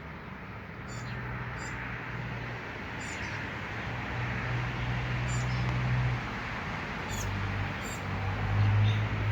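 Small birds chirping briefly, a handful of short high calls spread through, over a steady low engine hum that grows louder toward the end.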